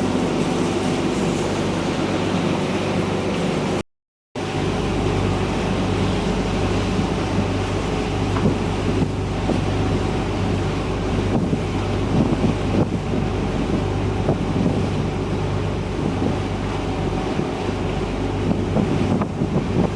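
Boat engine running at a steady drone, with wind buffeting the microphone and water rushing past the hull. The sound drops out completely for about half a second near four seconds in, then carries on.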